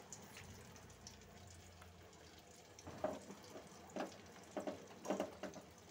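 Boiled eggs frying in shallow oil in a metal kadai, giving a faint, steady sizzle. From about three seconds in, a spoon knocks and scrapes against the pan several times.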